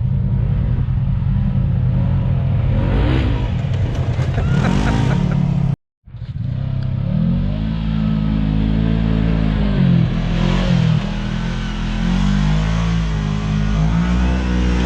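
Side-by-side UTV engine revving hard. Its pitch rises and falls over and over under throttle, with a sudden break of about a quarter second near six seconds in.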